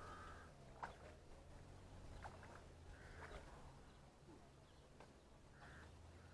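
Near silence outdoors, with three faint, short bird calls.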